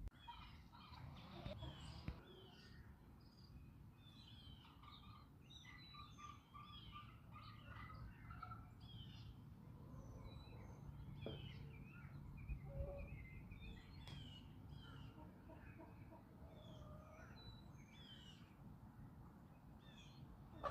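Faint chirping and twittering of small wild birds, many short high notes scattered throughout, mixed with soft calls of backyard chickens over a low outdoor rumble.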